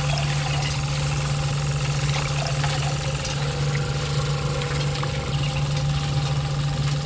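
A machine's motor running at a steady speed with a constant low hum.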